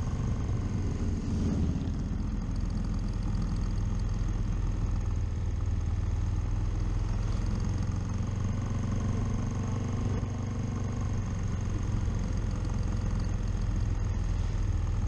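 Motorcycle engine running steadily while riding, a low rumble mixed with wind and road noise.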